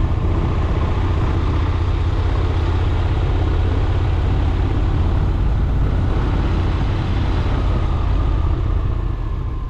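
Honda X-ADV 750 motorcycle riding at road speed: its parallel-twin engine running steadily under a heavy low rumble of wind and road noise. The sound fades out near the end.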